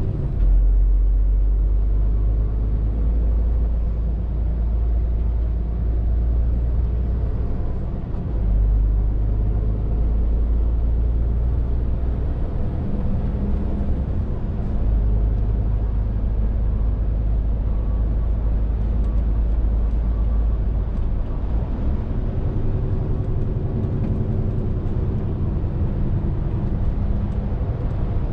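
Scania R450 lorry's 13-litre straight-six diesel droning under way, with steady road and tyre noise; the low engine rumble swells and eases several times as the load changes.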